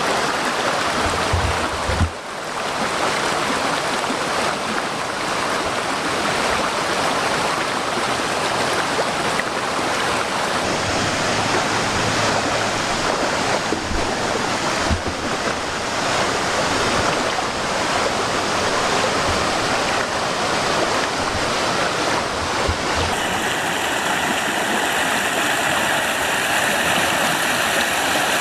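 Small forest waterfall: water rushing steadily over mossy rocks.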